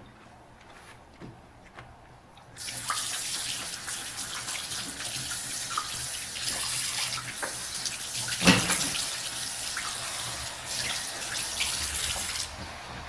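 Kitchen tap turned on about two and a half seconds in, water running into a sink while dishes are rinsed, with light clinks and one loud clack of a dish near the middle. The water stops abruptly near the end.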